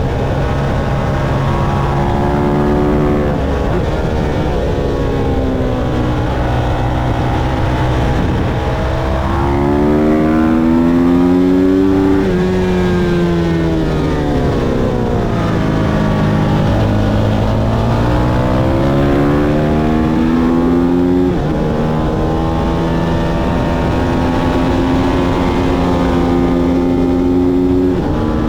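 Motorcycle engine at racing speed on a track, its pitch climbing and dropping sharply in steps as the gears change. About halfway through it falls low, as if slowing for a corner, then climbs again through the gears, over a steady rush of noise.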